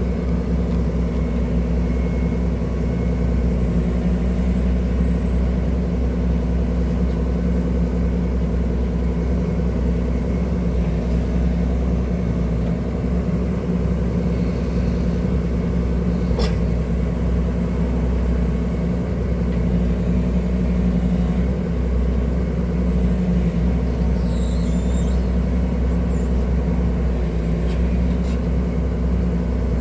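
Excavator's diesel engine running steadily with a low, even hum, with one brief click about halfway through.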